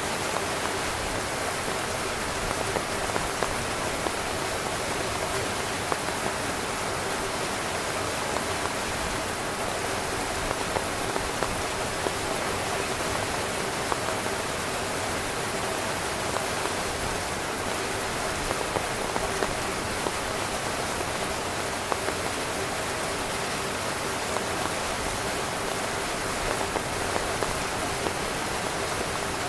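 Heavy rain drumming steadily on a tent's fabric, a dense even hiss with scattered louder individual drops hitting close by.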